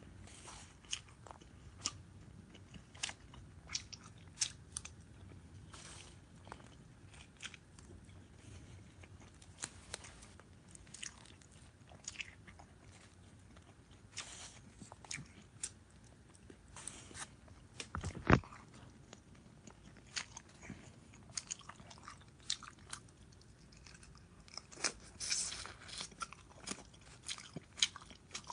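A person chewing and biting food close to the microphone, with many small wet, crunchy mouth clicks. A single louder knock comes about eighteen seconds in.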